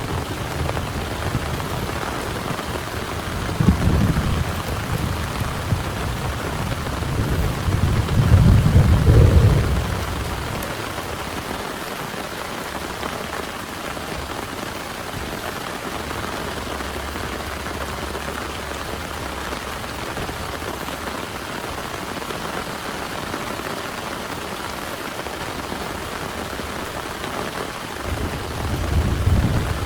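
Heavy rain pouring steadily, with low rumbles of thunder: a short one about four seconds in, a longer, louder one from about eight to ten seconds, and another starting near the end.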